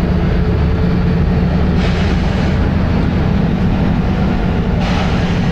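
Volvo B7RLE bus's six-cylinder diesel engine running steadily under way, heard from on board, with two short hisses, about two seconds in and near the end, typical of the bus's air system.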